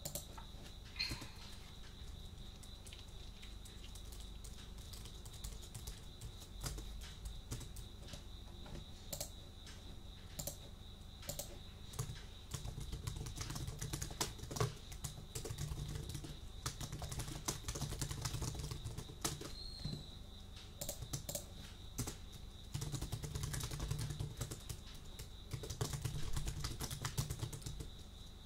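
Typing on a computer keyboard: irregular key clicks, busier in bursts of quicker typing, with a faint steady high tone behind them.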